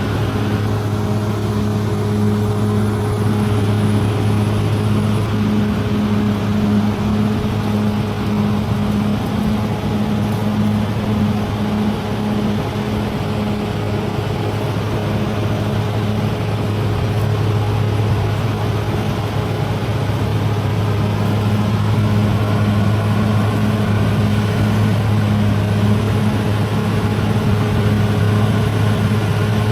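Bulldozer's diesel engine running steadily at constant speed.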